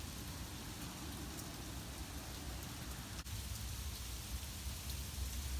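Blizzard wind blowing steadily as a hiss, with a low rumble of wind buffeting the microphone.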